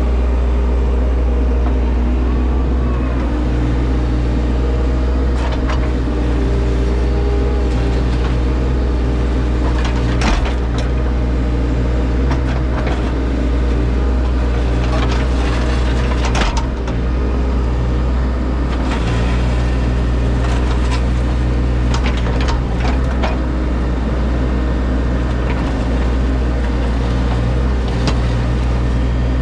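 Earth-moving machine's engine running steadily, heard from inside its cab, with a low drone and several sharp knocks and clanks scattered through, as the machine works at stripping sod and digging.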